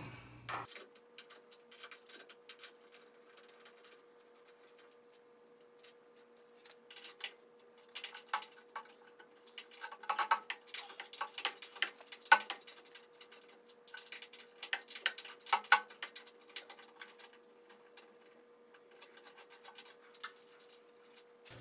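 Scattered sharp metallic clicks and clinks of hand tools, a ratchet wrench and sockets, working bolts loose under a car. The clicks come in uneven bunches, busiest in the middle, over a faint steady hum.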